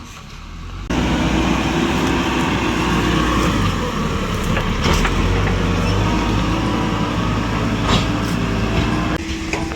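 Heavy machine's engine running loud and steady close by, with a couple of sharp metal knocks; it starts abruptly about a second in and drops away sharply near the end.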